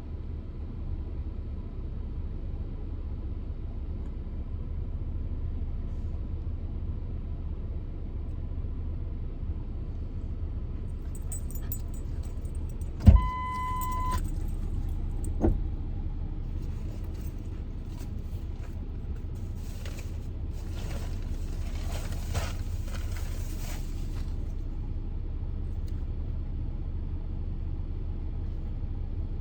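Steady low rumble of an idling vehicle engine. About 13 seconds in, a sharp click with a beep lasting about a second, then a thump a couple of seconds later, and light rattling around 20 to 24 seconds.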